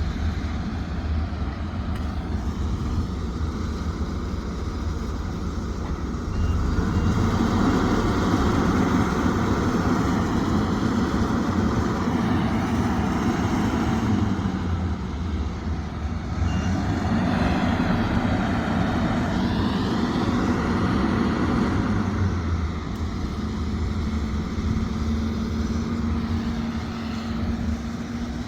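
Sumitomo SH370LHD-6 hydraulic excavator's diesel engine running steadily, twice growing louder for several seconds as it works under load.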